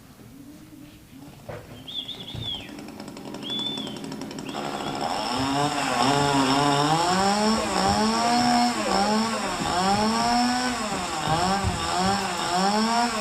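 Chainsaw revving again and again, its pitch rising and falling about once a second, starting about four seconds in and growing loud. Before it come two short high chirps.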